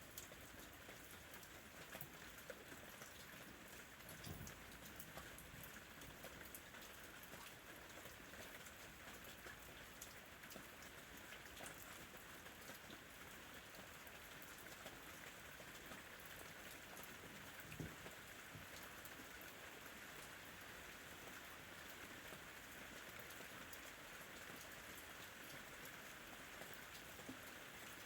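Soft, steady rain falling, with the patter of individual drops and an occasional louder drip.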